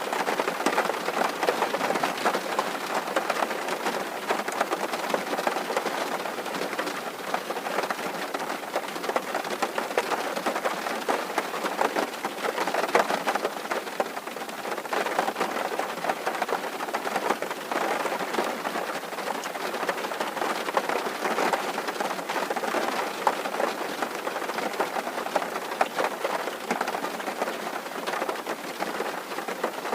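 Rain falling steadily on a tin roof: a dense, even patter of many small drops striking the metal.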